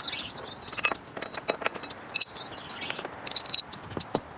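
Irregular clicks and knocks of metal hand tools working on a car engine, with birds chirping.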